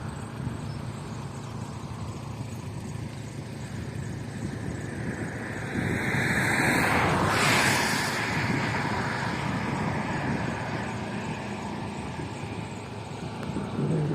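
Car driving on a road: a steady low engine hum under road and tyre noise, with a louder rushing swell that builds and fades midway.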